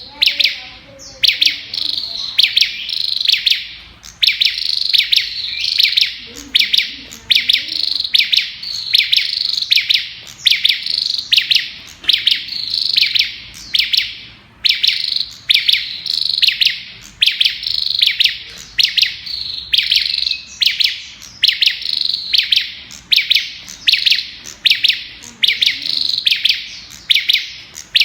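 Olive-backed tailorbird (Orthotomus sepium) singing a loud, rapid-fire chattering song: short high rattling phrases repeated about once a second, the machine-gun style prized in song training.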